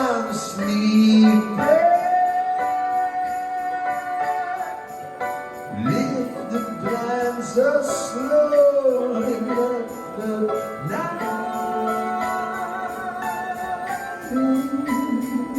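Live rock band playing a slow song: long sung notes that bend in pitch over sustained chords, with jingle bells shaking steadily throughout.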